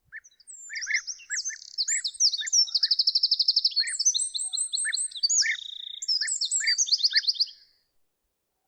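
Songbirds singing: one bird gives a long, varied song of high whistles and fast rattling trills lasting about seven seconds, while short lower call notes repeat underneath about twice a second.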